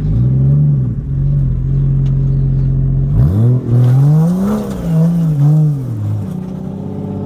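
Four-wheel-drive's engine running, revved briefly about half a second in, then revved harder from about three seconds in with its pitch rising and falling for several seconds as it works through a boggy section of track.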